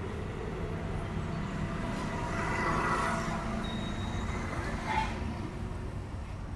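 Honda Activa 4G scooter's single-cylinder four-stroke engine running steadily, with a short click about five seconds in.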